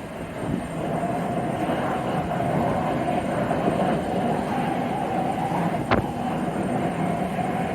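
Jet airliner engines running steadily, a constant rumble with a steady whine over it. A single sharp click about six seconds in.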